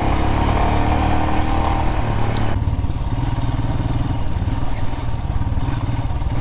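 Adventure motorcycle engine running steadily while riding along a gravel road. About two and a half seconds in, the engine note shifts and the road hiss drops.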